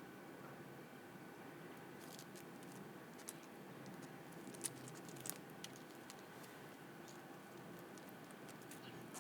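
Quiet garden ambience: a faint steady low hum with scattered light clicks and taps, the sharpest two a little past the middle.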